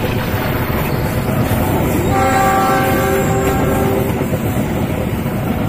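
Passenger carriages of an express train rolling past close by, a steady rumble of wheels on the rails. About two seconds in, a train horn sounds a steady chord for roughly two seconds.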